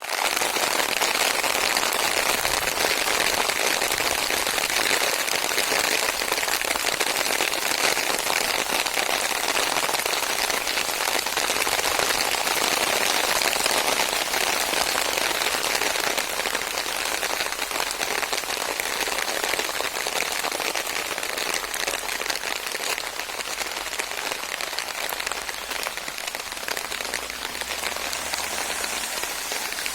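Steady rain falling, a dense patter of many drops striking surfaces, easing slightly in the second half.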